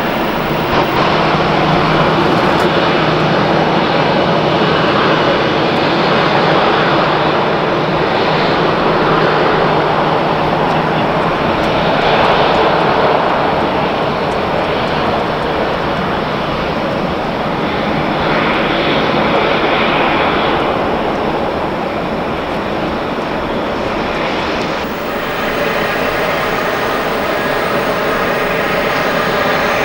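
Jet airliner engines running, a loud, steady rushing noise that swells and eases several times. About 25 seconds in, a set of steady whining tones joins it.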